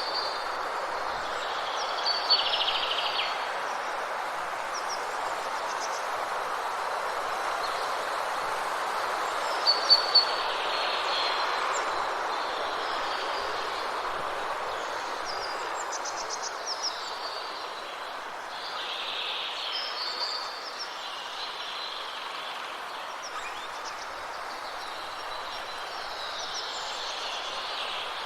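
Forest birds calling and chirping every few seconds over a steady rushing noise. The calls are sharpest about two seconds in and again around ten seconds.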